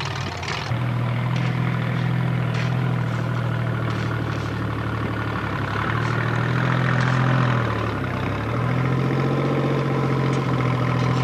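Formula Offroad competition car's engine running with a steady note. The note dips about eight seconds in, then comes back up and holds steady.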